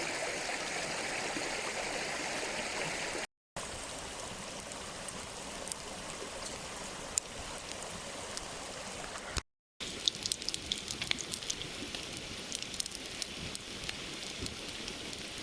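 A mountain stream running steadily for about three seconds, then, after abrupt cuts, bacon and black pudding frying in coconut oil, sizzling with sharp spitting pops that come thick and fast in the last few seconds.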